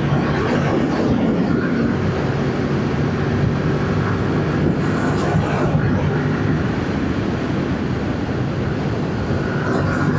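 Yamaha MT-07's parallel-twin engine on its stock exhaust, running at a steady pace while the bike rides along, with wind and road noise over it that swells briefly about halfway through.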